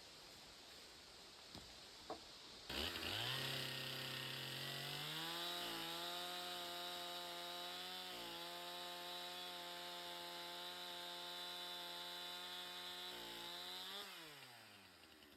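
Two-stroke chainsaw starting up suddenly a few seconds in, revving higher and then holding a steady high pitch, with two brief dips. Near the end the throttle is released and the engine winds down.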